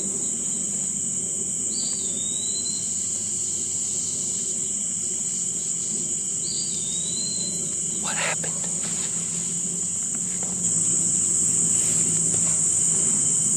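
Steady high insect chorus, a continuous buzz that grows louder about ten seconds in, with two short whistled calls that dip and rise, about two and six seconds in.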